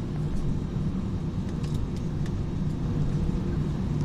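Airliner cabin noise: the jet engines' steady low rumble and drone heard from inside the cabin just before takeoff, with a few faint rattles.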